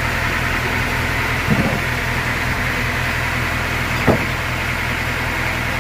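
An engine running steadily at idle, with two short knocks: one about a second and a half in, and one about four seconds in.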